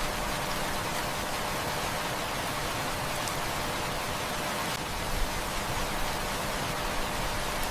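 Heavy rain falling, a steady even hiss with a few faint clicks of individual drops, one a little louder about five seconds in.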